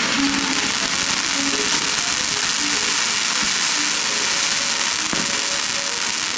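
Fireworks crackling: a dense, steady sizzle of many small crackles, with music faintly underneath.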